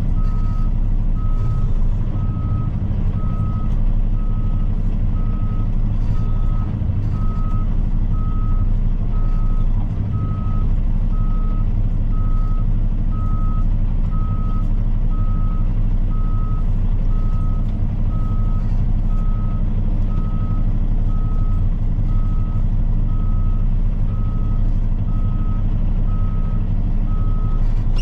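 Truck's reversing alarm beeping steadily, one even tone about once a second, over the steady low running of the truck's diesel engine.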